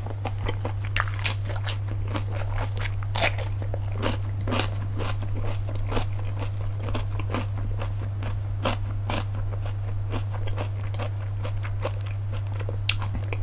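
Close-miked eating of cockles: chewing and crunching with many sharp clicks scattered throughout, over a steady low hum.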